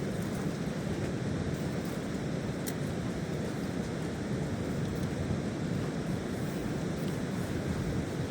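Steady rain and wind, a low even rushing with a few faint ticks from drops.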